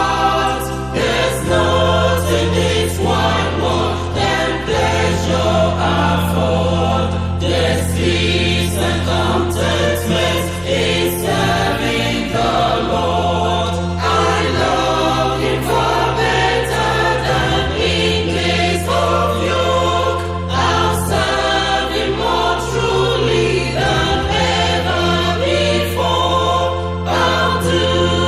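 Choral gospel music: voices singing over sustained bass notes that change every few seconds, with a steady beat.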